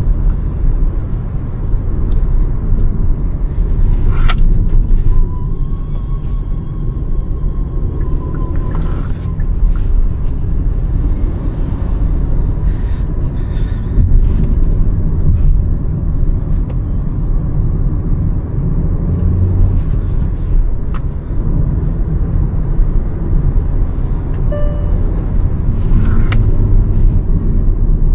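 Hyundai Verna 1.5 turbo-petrol car under way: a steady, loud low rumble of engine and road noise, with a few short tones and clicks over it.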